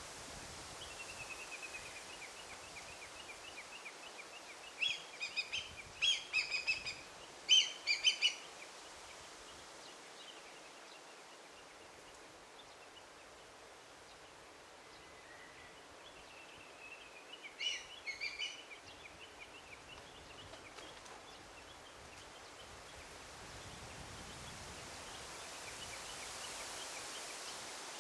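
Forest songbirds singing in two bouts. Each bout is a thin, fast trill that leads into a few louder, sharp chirping phrases, over a steady background rustle.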